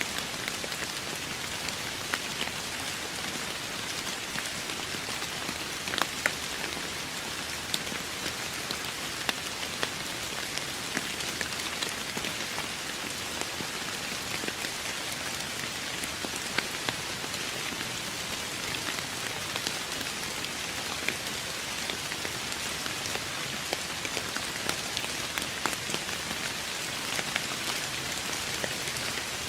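Steady rain falling, with individual drops ticking sharply on a nearby surface every so often.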